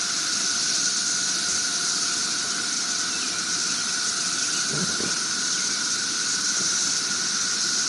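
Cicada chorus: a steady, high, even drone of many cicadas with no pauses.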